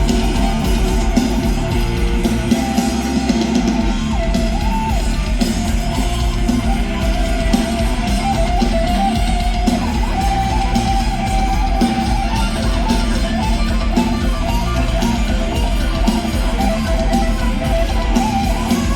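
Live rock band playing an instrumental passage: electric guitars with a melodic lead line over bass and a drum kit, with no singing.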